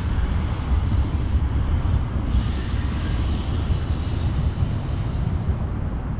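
City street ambience: wind buffeting the microphone as a heavy, uneven low rumble, mixed with traffic noise. A hiss of passing traffic joins a little over two seconds in and thins out after a few seconds.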